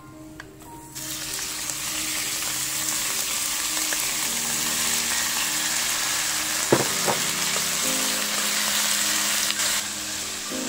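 Diced marinated chicken breast sizzling and frying in hot oil in a nonstick wok, the sizzle starting suddenly about a second in as the chicken lands in the pan, while it is stirred with a wooden spatula. Two sharp knocks a little past the middle, with light music underneath.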